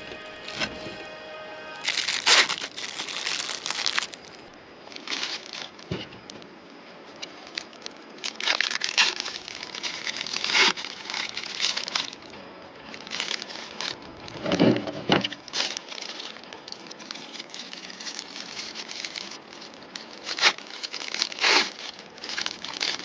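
Irregular bursts of crinkling and rustling handling noise, over background music.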